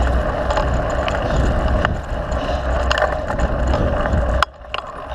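Mountain bike riding a dirt trail: wind rumbling on the microphone over the rattle of the bike, with scattered clicks and knocks. The noise drops abruptly about four and a half seconds in.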